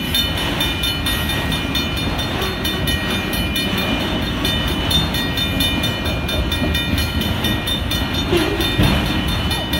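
Freight train of autorack cars and boxcars rolling past: a steady rumble and rattle of the cars on the rails, with a grade-crossing warning bell ringing over it.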